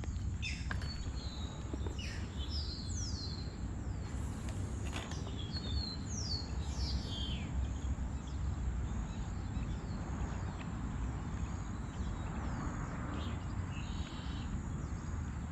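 Birds calling outdoors: several short, quickly falling chirps, mostly in the first half, over a steady low rumble.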